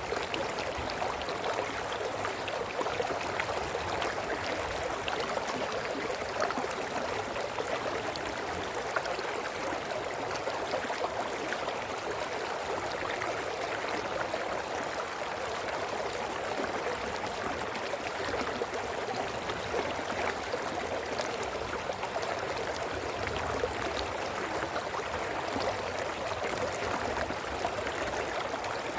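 A small brook running over stones: a steady babble of water with fine gurgles and splashes throughout.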